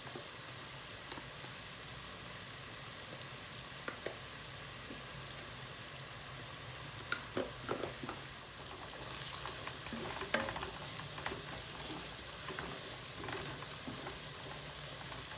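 Onions, garlic, ginger and whole spices frying in oil and ghee in a kadai: a steady sizzle, with a spoon clicking against the pan now and then. The sizzle gets louder about nine seconds in.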